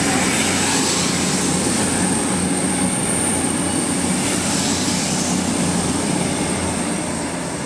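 CrossCountry Class 221 Voyager diesel-electric multiple unit passing at speed. Its engines and its wheels on the rails make a steady, loud rush of noise that eases slightly near the end as the last car goes by.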